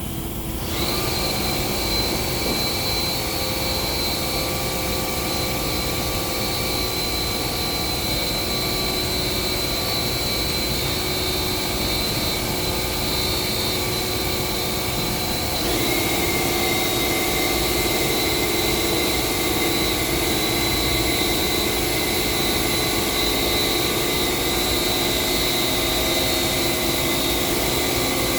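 Steady motor-driven machine running with a constant high whine over an even hiss. About sixteen seconds in its pitch shifts slightly and it gets a little louder.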